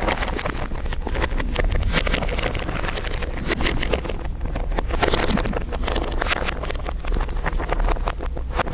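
Layered crinkling, a dense, irregular crackle of many small crinkles over a steady low rumble.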